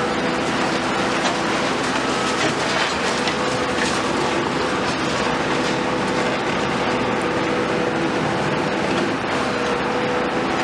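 Heavy tracked excavator working in demolition: the engine and hydraulics run with a steady whine, and scattered clanks and rattles of metal and rubble sound over it.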